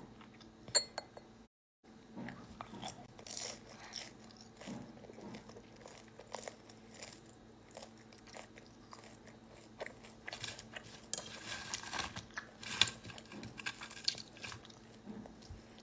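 Someone chewing and crunching food close to a phone microphone: scattered small crunches and mouth clicks, with a brief total drop-out of sound about one and a half seconds in.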